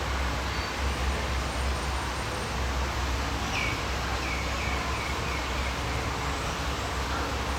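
Outdoor trail ambience with a steady low rumble; about three and a half seconds in, a bird calls a run of about six short notes, each a little lower than the last.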